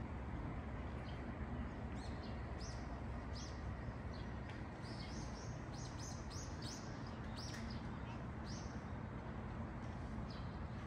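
Birds chirping: many short, high chirps in quick succession, coming thickest in the middle, over a steady low background rumble.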